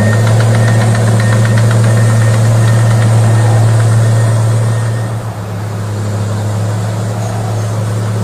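Huina 1554 RC bulldozer running: a steady, engine-like hum at one low pitch, with rapid light clicking over it for the first few seconds.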